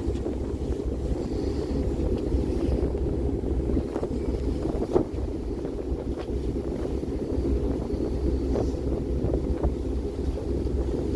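Wind buffeting the microphone aboard a moving harbour ferry, over a steady low rumble.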